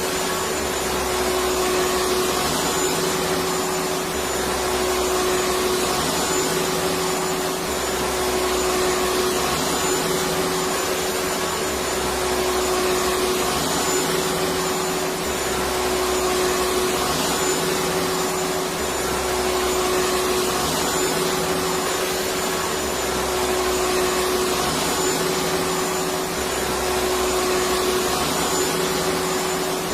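Electric vacuum cleaner running steadily: a constant hiss with a steady hum, and a low rumble that comes and goes about every two seconds.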